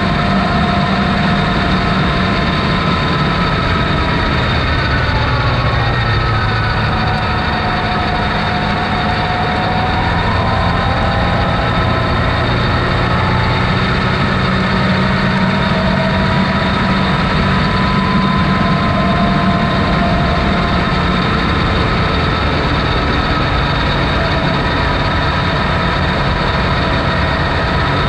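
Off-road vehicle's engine running steadily: a low drone with faint whining tones that drift slowly up and down.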